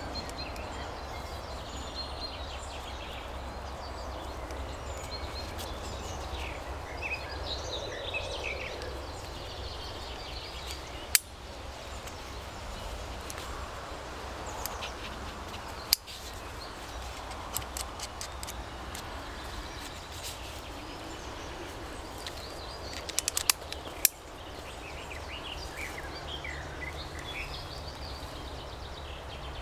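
Wild birds chirping and singing over a steady low background rumble. A few sharp clicks stand out: one about eleven seconds in, another about sixteen seconds in, and a quick run of clicks a little past three-quarters through.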